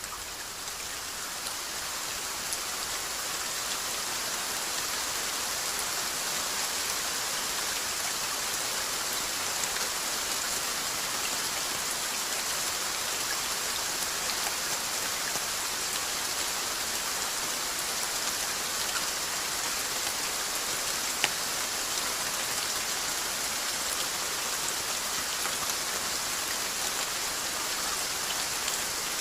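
Steady rainfall: an even hiss of drops hitting a surface. The level dips briefly at the start, and there is a single sharp drip-like tick about two-thirds of the way through.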